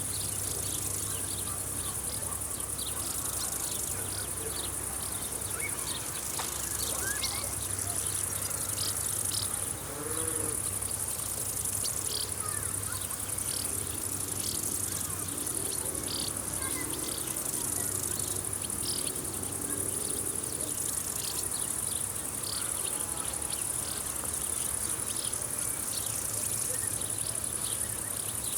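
Meadow insects chirring: a steady, high-pitched, pulsing trill throughout, with many short chirps over it.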